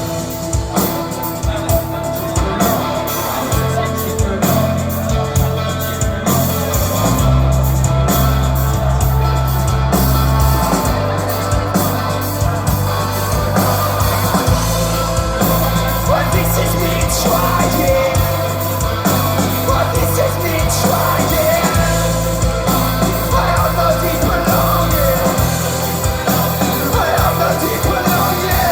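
Rock band playing live, with a singing voice over drums and a bass line that moves to a new note every second or two.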